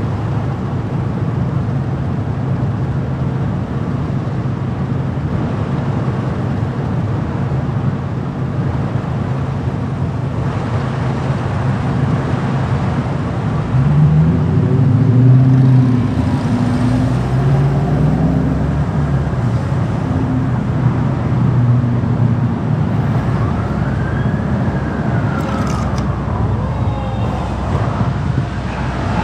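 Car driving in city traffic: a steady low rumble of road and tyre noise. About halfway through an engine note comes up and rises and falls in pitch several times, as with acceleration and gear changes or a passing vehicle.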